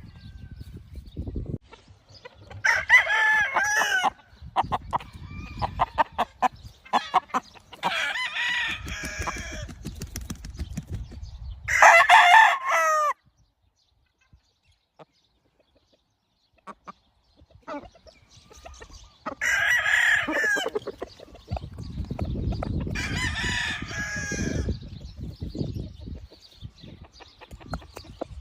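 Gamefowl roosters crowing, about five crows a few seconds apart, with short clucks and clicks between and a few seconds of near silence in the middle.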